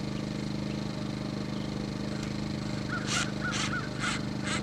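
A bird gives five short, harsh, honking calls in quick succession starting about three seconds in, over a steady low engine hum.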